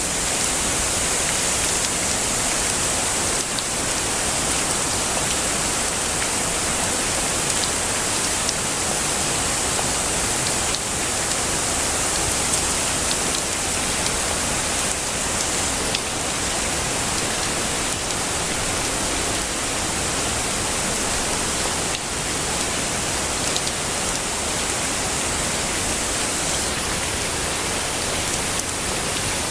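Heavy rain falling steadily, a dense, even hiss with a few faint drop ticks.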